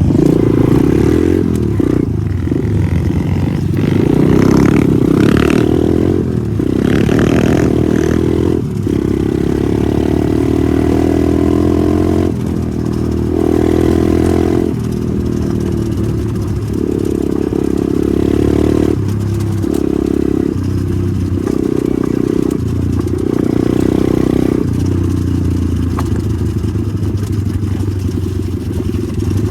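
Pit bike engine revving hard under load, its pitch repeatedly climbing and dropping every second or two as the throttle is worked and gears change.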